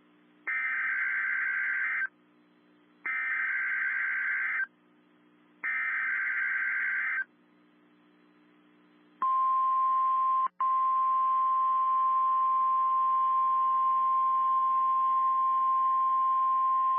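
NOAA Weather Radio emergency alert: three short bursts of screeching SAME digital header data, each about a second and a half, then the steady 1050 Hz warning alarm tone starting about nine seconds in, with a brief dropout shortly after it begins. The tones signal that a tornado watch is being issued.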